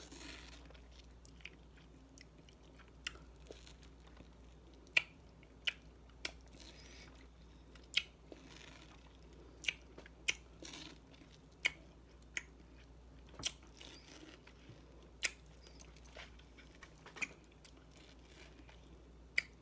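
A person chewing fresh fruit close to the microphone, with faint, irregular wet mouth smacks about once a second.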